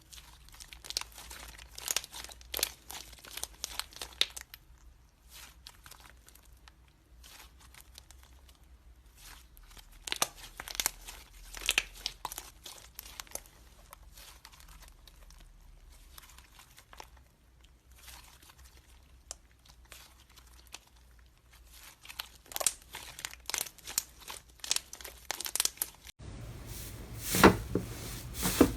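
Slime being squeezed and stretched by hand, giving irregular clusters of sharp crackles and pops. About 26 seconds in the sound cuts to another clip, with a louder run of pops.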